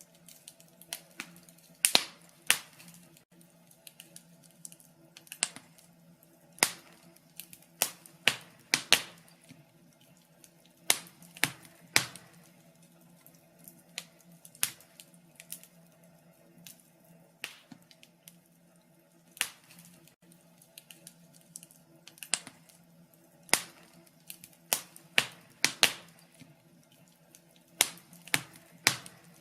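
Wood fire crackling: irregular sharp pops and snaps, sometimes in quick clusters, over a faint steady low hum.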